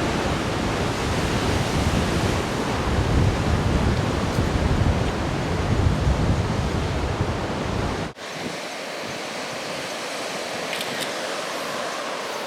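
Heavy surf from large storm swells breaking on a rocky shore, a dense rushing noise with wind rumbling on the microphone. About eight seconds in the sound cuts abruptly to a lighter, hissier wash of surf without the low rumble.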